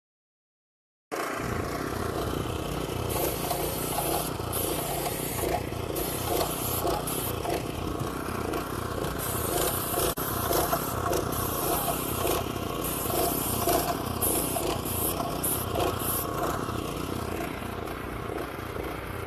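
A machine running steadily, its sound cutting in abruptly about a second in.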